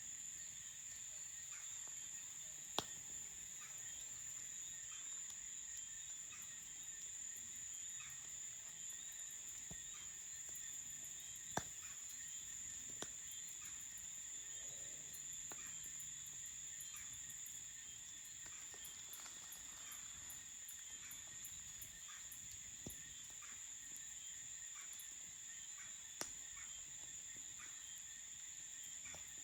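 Crickets chirping in a steady, high-pitched night chorus, with a few sharp pops of a campfire crackling: one about 3 s in, a pair near 12 and 13 s, and one near 26 s.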